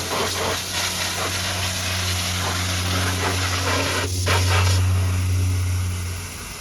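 High-pressure water jet hissing against the truck, over the steady low hum of the washer's pump. The spray sound changes about four to five seconds in, and the hum stops just before the end.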